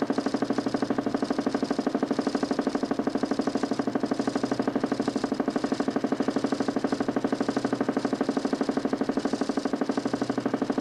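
DC motor spinning a 40 cm plywood Nipkow disc in a homemade mechanical television, running steadily with an even throb of about a dozen pulses a second.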